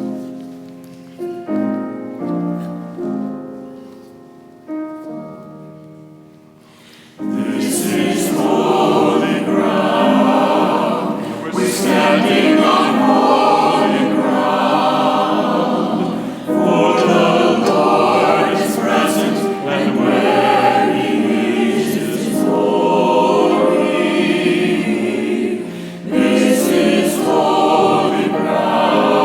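Choral introit: a few soft piano notes, then a church choir comes in about seven seconds in and sings in phrases with short breaths between them.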